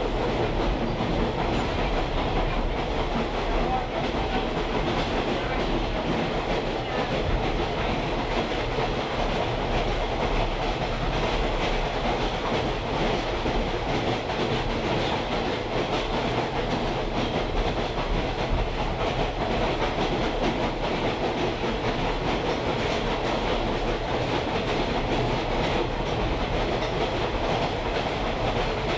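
Steady running noise of a moving train heard from aboard a caboose: the rumble and rattle of steel wheels rolling over the rails, even throughout.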